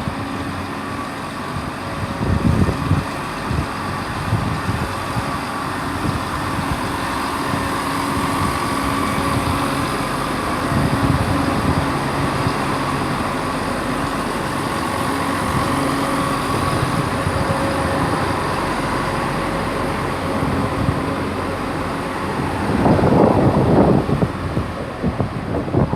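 CrossCountry Class 170 Turbostar diesel multiple unit's underfloor engines running under power as the train pulls out. The engine sound is steady and swells louder near the end as the unit passes.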